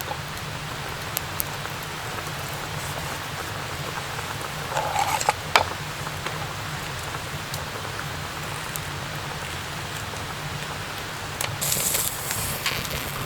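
Steady rain falling, with scattered small clicks and two brief louder noisy bursts, one about five seconds in and one near the end.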